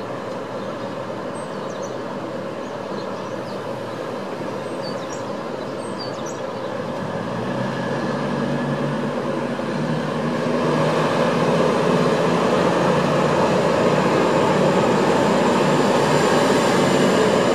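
Train noise at a railway station, growing louder over several seconds and then holding steady, with a low engine-like drone coming in about seven seconds in.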